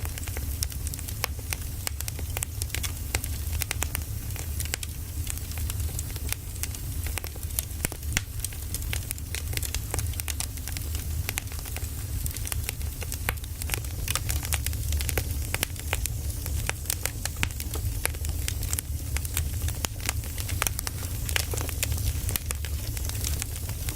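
Firewood burning, crackling with frequent sharp irregular pops over a steady low rumble.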